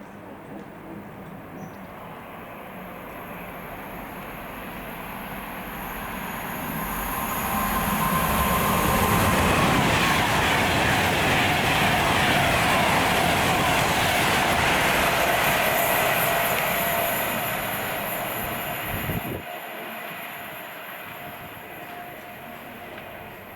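A train going by on the rails: the rumble and rush of the wheels grow over several seconds, stay loudest for about ten seconds with a steady tone over them, then fade away.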